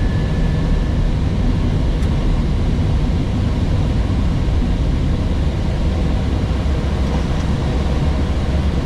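Steady low rumble of airflow and engine noise inside an Airbus A321neo cockpit during the descent on approach.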